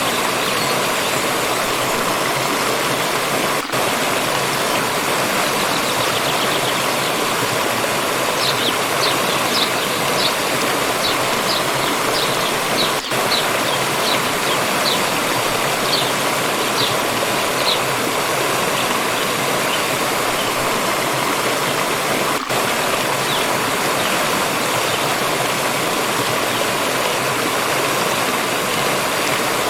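Steady rushing of a water stream. Near the middle, a bird repeats a short, high chirp about once or twice a second for roughly ten seconds.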